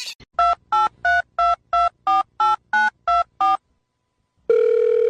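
Telephone keypad touch-tones: ten quick two-tone beeps, about three a second, as a number is dialled. After a short pause, a steady phone line tone begins near the end.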